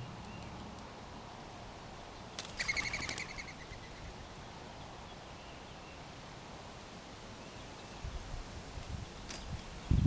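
A backyard bird giving one short, rapid chattering call about two and a half seconds in, with a few faint chirps elsewhere, over steady outdoor background noise.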